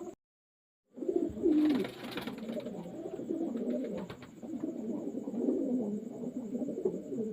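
Racing pigeons cooing, several calls overlapping almost without pause. The sound cuts out completely for about a second near the start, and there is a brief rustling noise a second or so later.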